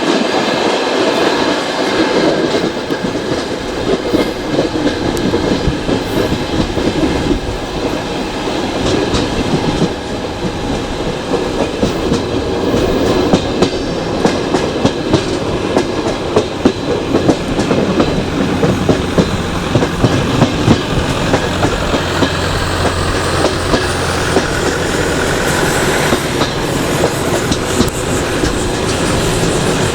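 Passenger train running on the line, a steady rolling rumble with the wheels clicking over rail joints. The clicks come sharper and more often from about thirteen seconds in.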